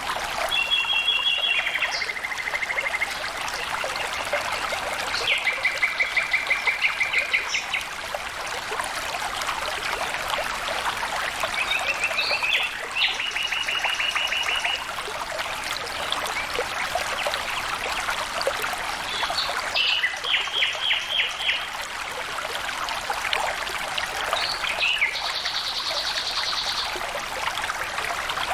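Steady running water of a stream, trickling and flowing. A bird sings short trilled phrases over it every few seconds.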